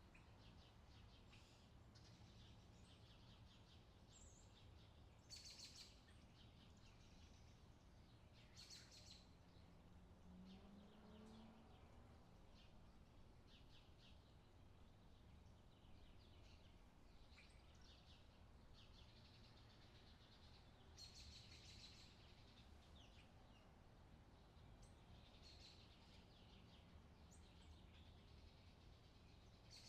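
Faint outdoor summer ambience track: birds chirping here and there over a low steady background hum.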